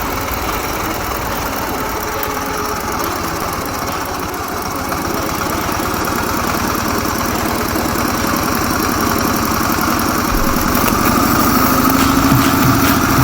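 Ural sidecar motorcycle's flat-twin engine running, getting louder through the second half and rising in pitch near the end.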